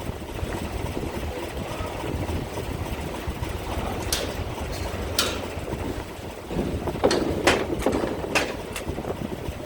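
Low steady rumble of a ferry's engines with wind on the microphone. Several sharp knocks come through, one about four seconds in, another a second later, and a quick run of them in the last three seconds.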